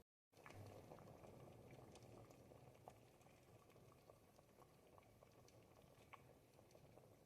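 A pot of thick ribollita soup simmering, faint soft bubbling with scattered little pops. The sound drops out completely for a moment at the very start.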